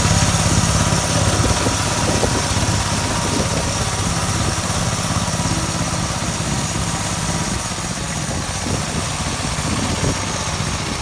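Engine of a homemade motor-tractor built from a walk-behind tractor, running steadily and slowly growing fainter.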